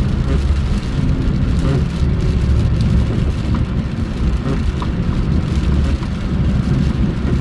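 Steady low rumble of a vehicle travelling on the road: engine and road noise with a hiss on top, unchanging throughout.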